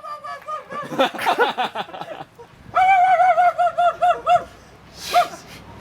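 People laughing: high-pitched giggling, with a run of quick, evenly repeated 'ha-ha' bursts in the middle and one short laugh near the end.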